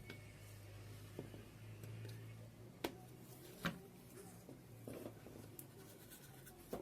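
Quiet handling noises over a low hum that fades out, with two sharp clicks just under a second apart and a few fainter ticks.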